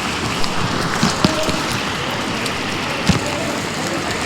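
Heavy rain falling steadily, a dense even hiss with a few sharp taps of drops or drips about a second in and about three seconds in.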